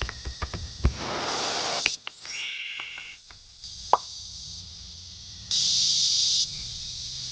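Steady hiss of rain with drops plopping and a few small knocks in the first second, a sharp tap about four seconds in, and the hiss briefly louder about six seconds in.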